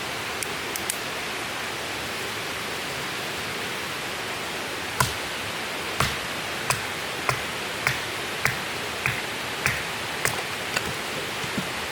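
A steady rushing hiss, with a regular series of about a dozen sharp knocks, a little under two a second, starting about halfway through.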